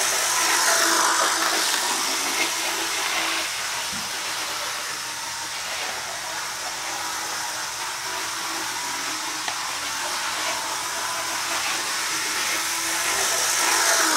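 HO-scale model train locomotive running a lap around the track. Its motor and wheels make a steady whirring hiss that swells about a second in and again near the end.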